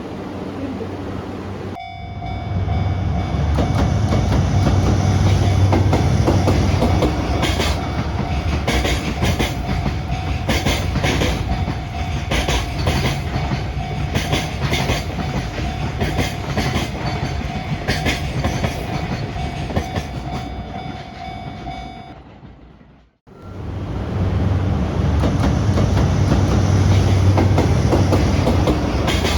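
A train running past with the clickety-clack of its wheels over rail joints in a regular beat. The sound breaks off suddenly about two-thirds of the way through and starts again at full level.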